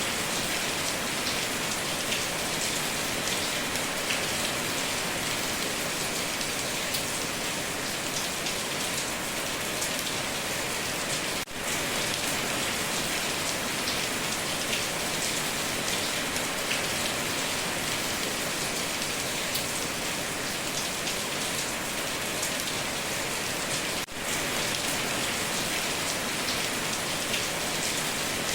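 Heavy rain drumming steadily on a tin roof, a dense, even patter. The level dips for a moment twice, about a third and about four-fifths of the way through.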